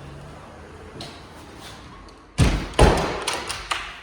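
A door being shut: two heavy thumps about half a second apart, about two and a half seconds in, followed by a few lighter knocks.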